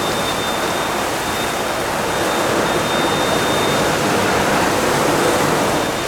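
Fire hose spraying water in a loud, steady rush, with a faint thin high whistle through the first two-thirds.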